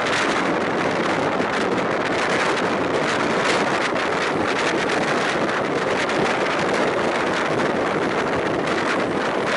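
Wind rushing over a microphone held out of a moving passenger train's window, over the steady running noise of the train.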